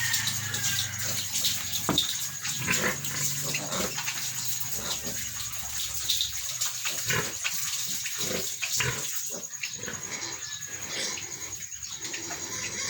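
Piglet squealing in short, repeated cries while being held and castrated.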